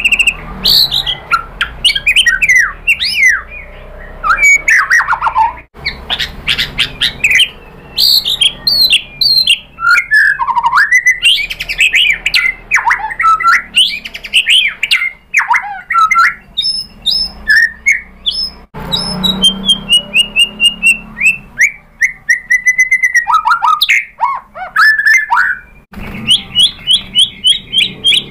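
White-rumped shama singing a loud, varied song: whistled phrases, quick sweeping notes and rapid repeated chattering notes. The song changes abruptly several times, and near the end runs into a fast series of repeated notes.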